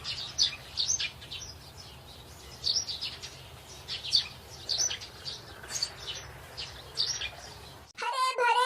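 Birds chirping in repeated short, high chirps over a faint steady low hum. Both cut off suddenly about eight seconds in, as a child's singing voice starts.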